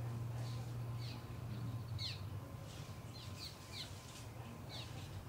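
Faint bird chirps: several short, quickly falling notes scattered over a few seconds, over a low steady hum.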